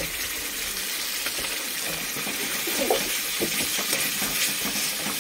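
Masala sizzling in a steel kadai as ground coconut paste is stirred in with a metal spatula, which scrapes against the pan a few times around the middle.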